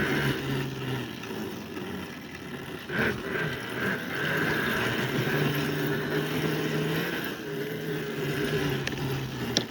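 A small vehicle's motor running steadily as it is ridden over grass, its pitch rising and falling a little. There is a brief knock about three seconds in.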